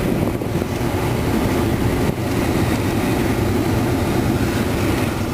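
Steady rushing hum inside the cabin of a 2003 GMC Envoy with its engine running and the climate control fan blowing.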